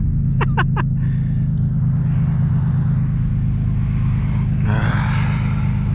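Turbocharged Nissan 370Z's 3.7-litre V6 running steadily under way, a constant low drone. A short rushing noise rises over it about five seconds in.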